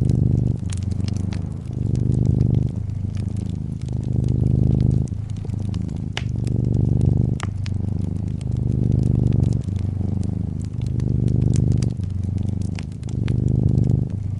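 Domestic cat purring close up: a low hum that swells and eases with each breath, about every two seconds. Over it a wood fire crackles with scattered sharp pops, two of the loudest in the middle.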